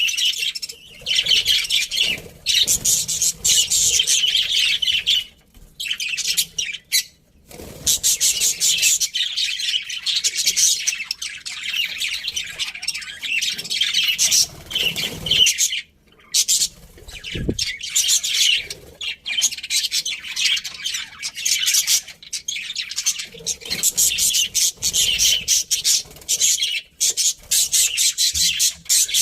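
A group of budgerigars chirping and chattering in dense, rapid bursts with short pauses.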